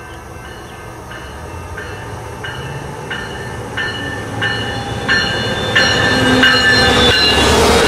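Siemens Charger diesel-electric locomotive of an Amtrak Cascades train approaching and passing: its bell rings steadily at about one and a half strikes a second, each strike growing louder, over a low rumble of engine and wheels that builds throughout. Near the end a broad rush of train noise swells as the locomotive draws level.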